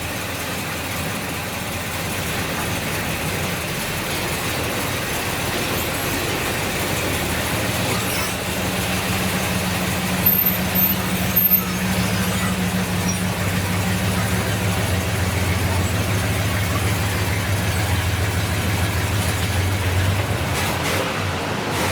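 1970 Buick Wildcat's 455 V8 running at low speed as the car is pulled in, with a steady low hum that ends near the end. Three brief high-pitched squeaks come about ten to eleven seconds in.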